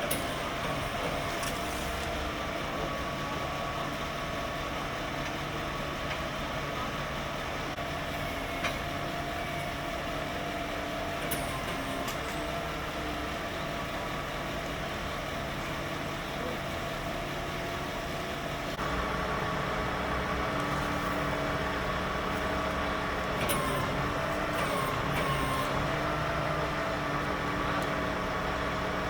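Engine of a large vehicle, such as a truck or bus, idling steadily, its pitch wavering slightly, growing louder about two-thirds of the way through.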